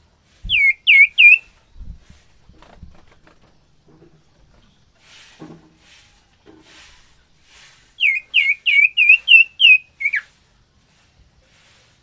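Common ioras calling: a quick run of three sharp down-slurred whistled notes about half a second in, then a longer run of about eight of the same notes a few seconds later, the last one dropping lower. A couple of soft low thumps come near the start.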